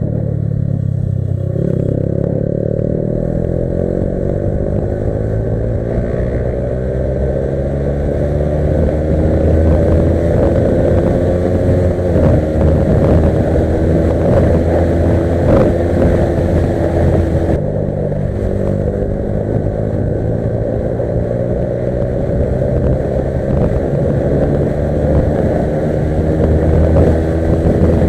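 Yamaha R15 V3 motorcycle's single-cylinder engine under way, its pitch climbing slowly as the bike gathers speed, with a sudden drop about two-thirds through before it climbs again.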